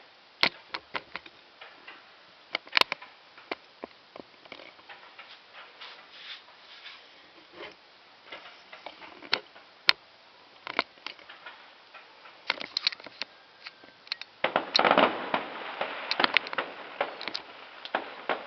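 Fireworks going off in scattered sharp pops and cracks at uneven intervals, then a dense run of crackling about fourteen seconds in that lasts a second or two.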